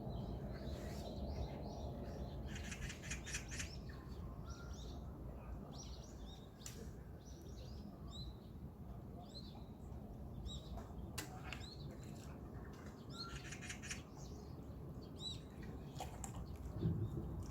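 Small birds chirping and calling, with short scattered notes and a couple of rapid trills, over a steady low background rumble.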